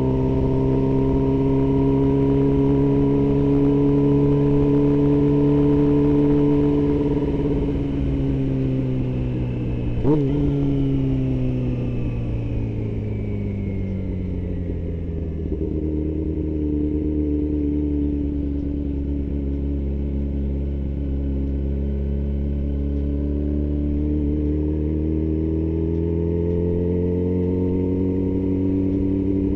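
Yamaha R6 sport bike's inline-four engine running under way. Its pitch falls as the revs drop partway through, with a single sharp click, then holds low and steady before climbing again near the end.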